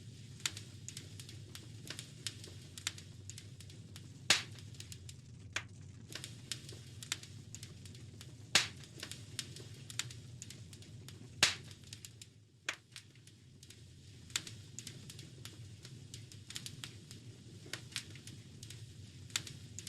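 Wood fire crackling in a fireplace: irregular sharp pops and snaps over a low steady rumble, with three louder pops spread through.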